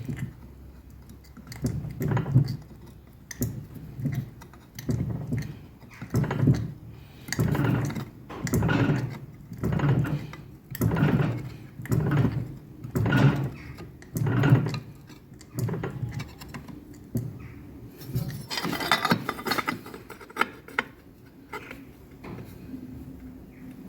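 Fly press being bumped over and over, its ram driving the tooling into cold 2 mm steel plate to press in leaf veins, about one dull stroke a second. About three quarters of the way through there is a short burst of metallic scraping.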